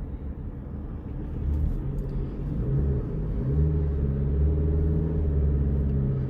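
Car engine and road noise heard from inside the cabin: a low hum that gets louder and steps up in pitch about one and a half seconds in, then holds steady.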